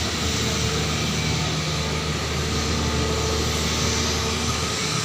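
A vehicle engine running steadily under a broad rushing traffic noise, its low hum dropping away near the end.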